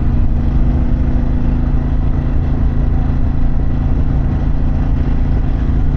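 Harley-Davidson Pan America's Revolution Max 1250 V-twin running under way at a steady cruising speed, its pitch holding even, over a heavy low rumble of wind and road.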